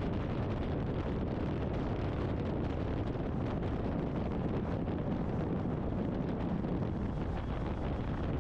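Steady wind rush and riding noise on a helmet intercom microphone from a motorcycle at road speed, an even, unchanging hiss and rumble.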